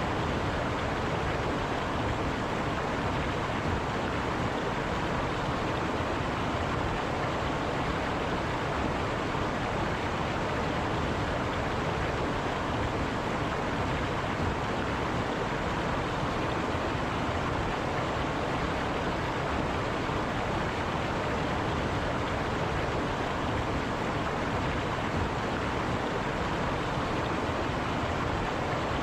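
River water rushing over rocks, a steady, unbroken flow.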